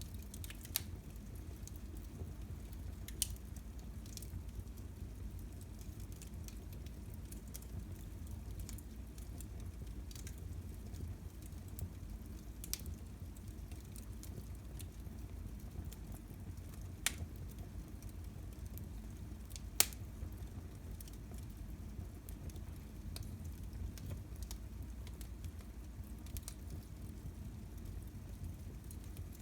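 Wood fire burning in a fireplace: a steady low rumble and hiss with scattered small crackles and a few sharp pops, the loudest about twenty seconds in.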